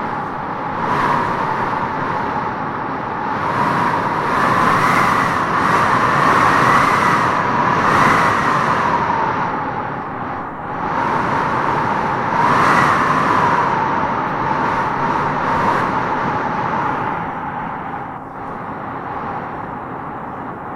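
Strong wind gusting through trees, a steady rush with a wavering howl that swells and fades several times.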